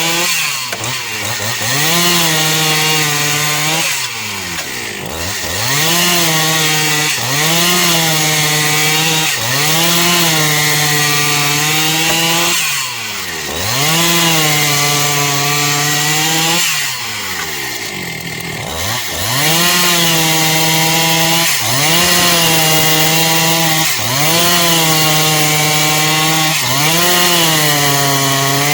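Two-stroke chainsaw cutting eucalyptus wood at high revs. The engine note dips and climbs back every couple of seconds, and drops deeper a few times.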